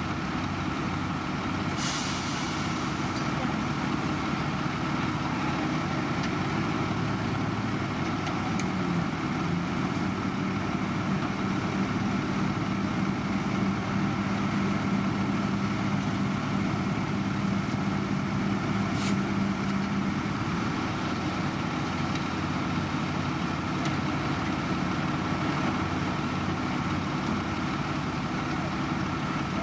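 Heavy construction machinery engines running steadily, with a short air hiss about two seconds in and a single click later on.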